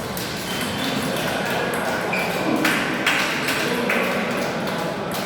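Table tennis ball being played in a rally: a series of sharp clicks of the ball striking the rackets and bouncing on the table, about two a second, ringing a little in a large hall.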